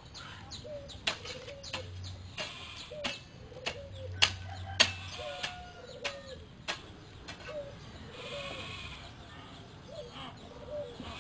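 An animal giving short, low calls with a small bend in pitch, repeated about once or twice a second, among sharp clicks.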